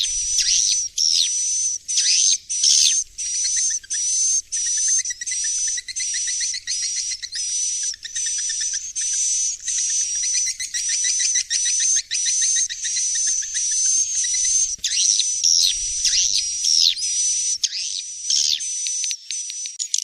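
Recorded swiftlet roosting call ('suara inap'): a dense, continuous stream of high, buzzy chirps and twitters, broken by short gaps about every second. It is a lure sound played to make young swiftlets settle and roost in a swiftlet house.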